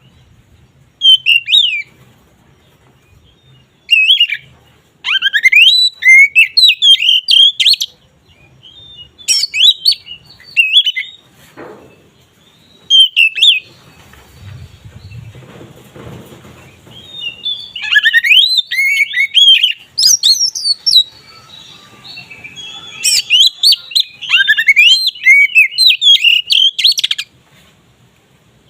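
Oriental magpie-robin (kacer) in full open song, bursts of rapid, varied whistled and chattering phrases that sweep up and down. Several bouts come with short pauses between them.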